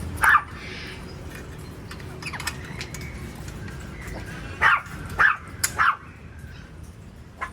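Parrot giving short, harsh squawks: one just after the start, then three in quick succession about two-thirds of the way in.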